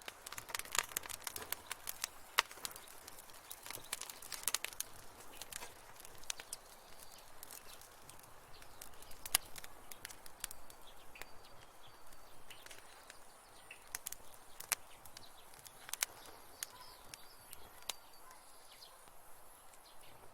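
Wood fire crackling in a fireplace: irregular sharp pops and snaps over a soft hiss, thicker in the first few seconds and sparser after.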